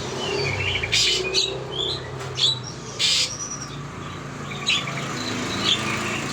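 Small songbirds chirping, a run of short, sharp high calls with a few quick trills.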